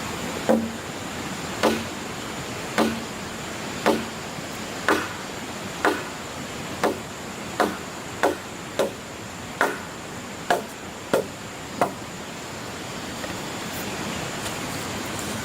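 Hand tool striking wood in a steady series of about fourteen blows, roughly one a second and a little quicker midway, stopping a few seconds before the end, over a steady hiss.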